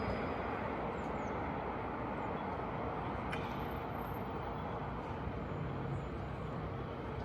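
Steady ambient din, an even low rumble with no clear single source, with one faint click a little over three seconds in.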